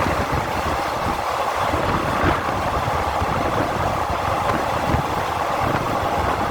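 Train running: a steady rumble with irregular low knocks underneath.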